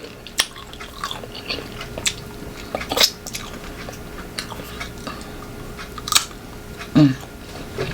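Close-miked biting and chewing of crisp unripe green mango, with sharp crunches about half a second, three seconds and six seconds in. A brief hum from the eater comes near the end.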